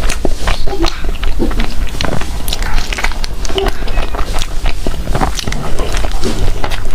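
Close-up mouth sounds of bread being bitten and chewed, with frequent small crackles and clicks.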